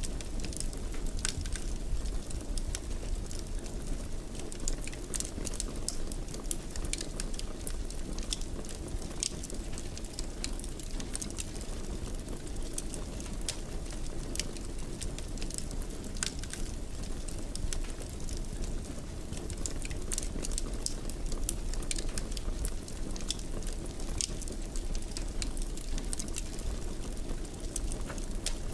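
Wood fire in a fireplace burning, with frequent irregular sharp crackles and pops over a steady low rushing noise.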